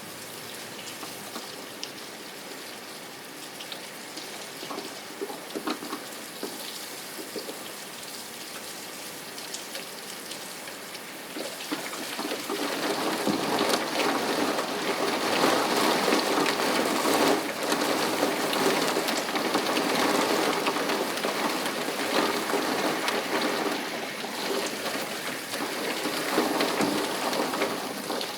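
Rain falling steadily, with scattered drops ticking, growing heavier about twelve seconds in.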